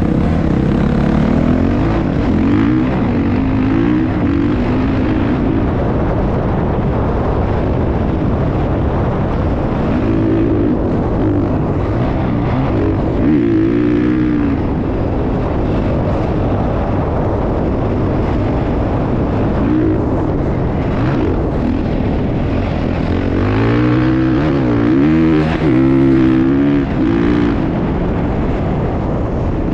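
Motocross dirt bike engines running loud and steady, with the pitch repeatedly rising and falling as the throttle is opened and closed; the revving is strongest in two spells, around the middle and near the end.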